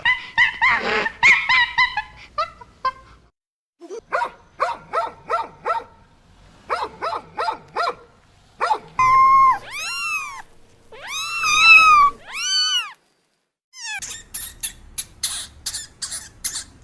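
Dogs yapping and barking in quick runs of short, sharp yips. A few drawn-out calls that rise and fall in pitch follow about nine seconds in, then a fast string of short, high squeaks near the end.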